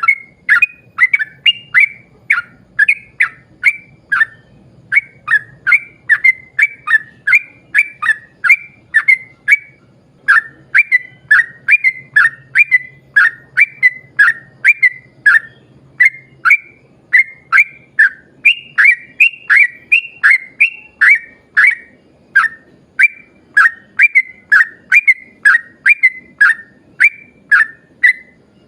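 Yellow-vented bulbul (trucuk) singing a long unbroken run of short, bubbly whistled phrases, about two a second.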